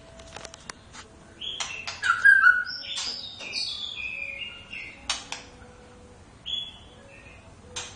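White-rumped shama (murai batu) singing: a run of varied whistled phrases, jumping in pitch, mixed with sharp clicking notes, thinning out to a single short note and a click in the second half.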